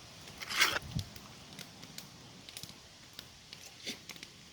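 A knife cutting through a cooked boneless ham: a short cutting sound about half a second in, a soft knock just after, another short cut near the end, and scattered small clicks between.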